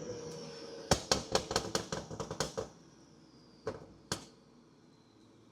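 Exhaust of a BMW X5 40i's turbocharged inline-six with a catless downpipe and a burble tune: a short rev held, then about a second in a quick string of sharp pops and crackles on the overrun, with two last pops a moment later.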